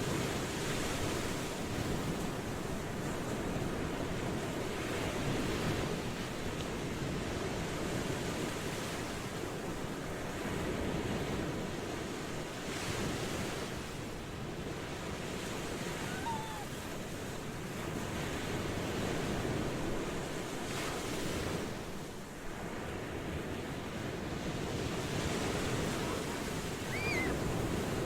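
Ocean waves washing in continuously, swelling and easing every few seconds. Two faint short chirps sound about halfway through and near the end.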